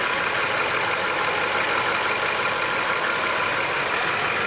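BMW M8 Competition's twin-turbo V8 idling steadily.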